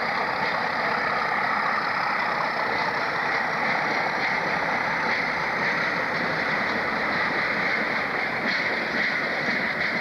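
Train running with a steady, unchanging noise of engine and wheels.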